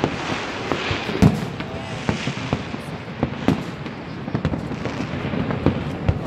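Aerial fireworks exploding: an irregular series of sharp bangs over a steady background rumble, the loudest about a second in.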